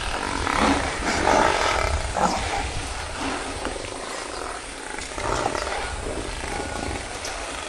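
Wild animals growling in a few short rough outbursts over a low steady rumble.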